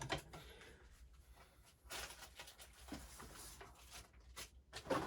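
Faint clicks, light rattles and scrapes of a camshaft sprocket and cam chain being handled and fitted into a small single-cylinder motorcycle engine, with a short rougher scraping stretch about two seconds in and a few sharper clicks near the end.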